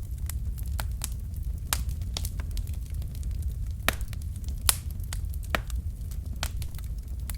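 Wood fire crackling: burning logs pop and snap irregularly, with a few sharper pops about four and five seconds in, over a steady low rumble of the flames.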